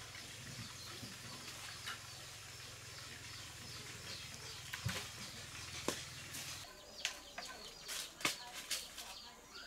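Birds: scattered flaps and knocks, then from about seven seconds in a run of high, falling chirps, about two a second. A low hum cuts off about two-thirds of the way through.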